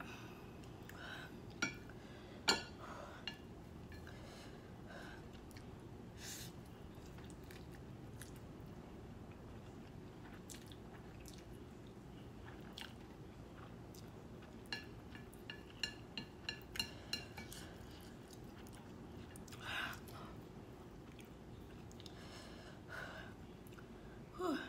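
A person eating spicy instant noodles with chopsticks: quiet chewing with scattered sharp clicks, including a quick run of clicks a little past the middle, and a few louder mouth sounds later on, the last near the end.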